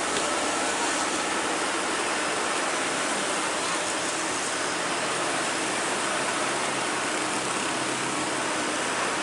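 Steady vehicle noise: an even rush with a faint low hum and no distinct events.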